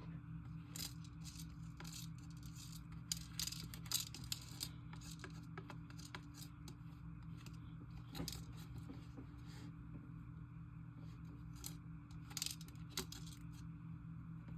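Glossy slime being mixed with clay by hand, giving irregular sharp clicks and pops.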